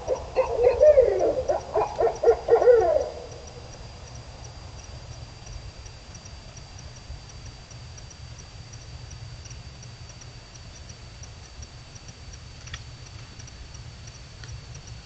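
An animal's loud, wavering call for about the first three seconds, its pitch sliding up and down in quick broken pulses; then only a faint steady background with a thin high tone.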